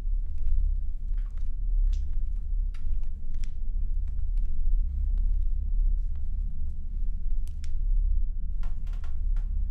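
Steady low rumble with scattered small clicks and taps.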